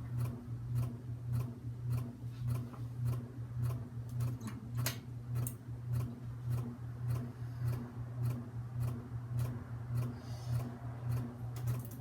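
SMC Park Avenue III ceiling fan running on medium speed: a steady low motor hum that pulses in level, with a light regular ticking about twice a second and one sharper click about five seconds in.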